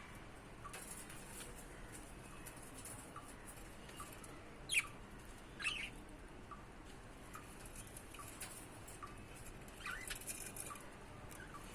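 Budgerigar giving a few short, sharp chirps: two about five and six seconds in and a small cluster near the end, over faint regular ticking.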